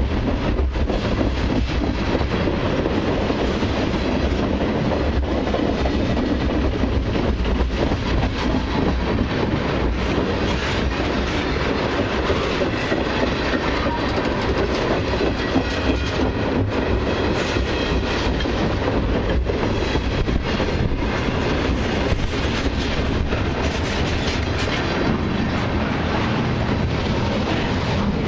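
Freight train cars rolling past at track speed: a steady rumble of steel wheels on rail with a running clatter of wheel clicks over the rail joints.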